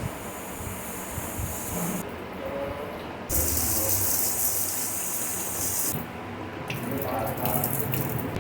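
Water running from a tap into a sink, turned on and off in three bursts of about two seconds each.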